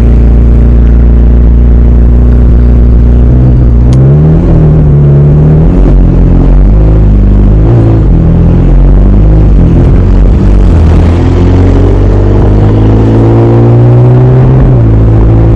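McLaren 720S twin-turbo V8 engine running hard under acceleration. It holds a steady drone at first, changes pitch repeatedly through the middle, then climbs for several seconds and drops abruptly near the end, as on an upshift.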